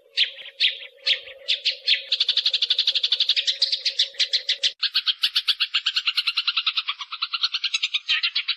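Eurasian tree sparrows fighting: a few separate sharp chirps, then a fast, even chatter of chirps at about ten a second.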